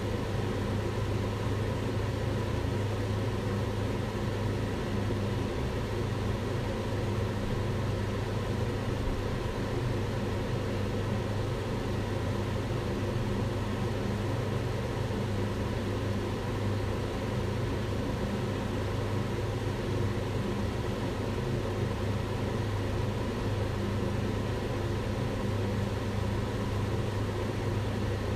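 Kitchen range hood fan running steadily: an even whooshing rush of air with a low hum.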